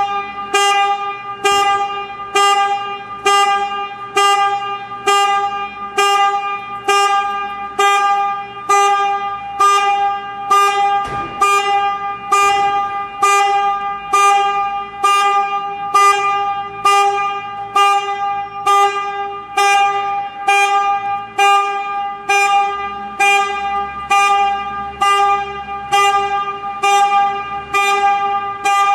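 Vehicle reversing alarm beeping steadily, a bit over one beep a second, each beep ringing on in an echoing space.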